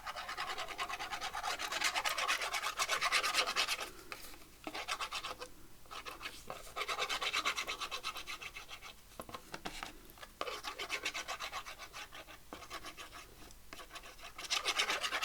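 Brisk, rapid scratchy rubbing on the edge of a paper tag, in several bursts of a few seconds with short pauses between them.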